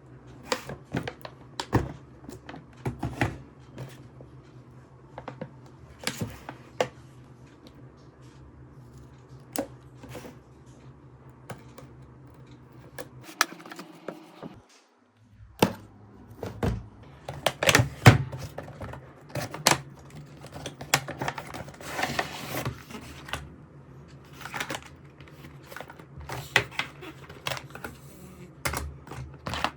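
Irregular clicks and taps of hard plastic being handled, as an RC toy car and its packaging are unboxed by hand, over a steady low hum that drops out for about two seconds midway.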